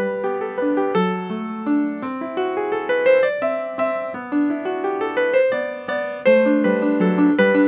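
Piano music: a continuous flow of struck notes and chords, each ringing and fading as the next comes in.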